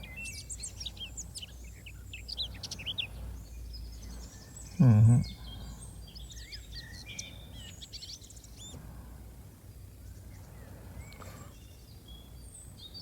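Morning birdsong ambience: many small birds chirping and twittering in quick, high trills. About five seconds in, a short, low hum from a man's voice stands out over it.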